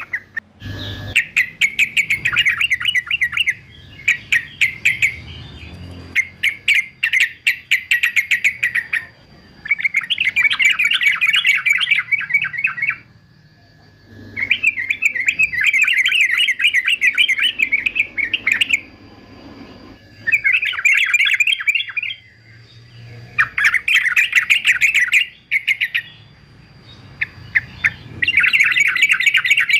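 Male yellow-vented bulbul (trucukan) singing: repeated bursts of rapid, chattering notes, each burst lasting a few seconds, with short pauses between them.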